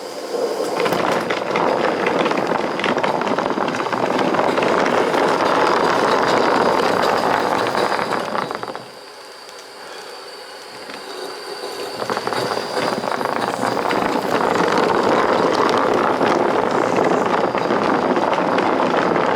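Steam locomotive No. 4633 moving and shoving back, its wheels grinding and grumbling over sand on the rail. It runs in two long stretches with a quieter lull about nine seconds in, and a thin steady high tone runs through it.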